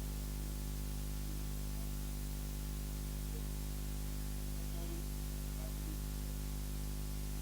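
Steady electrical hum with hiss from the sound system's noise floor, unchanging throughout.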